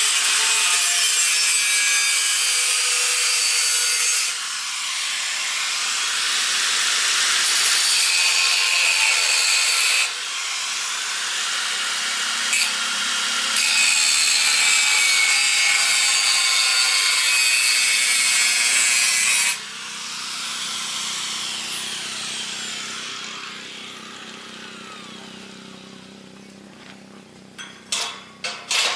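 Angle grinder cutting steel bar: a loud, hissing grind that eases off briefly about 4 and 10 seconds in. About 19 seconds in the tool is released and the disc spins down with a falling whine, followed by a few sharp knocks near the end.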